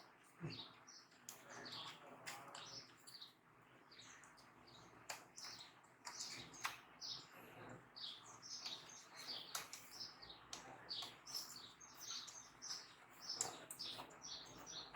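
Small birds chirping over and over in short, falling chirps, several a second, with scattered faint clicks.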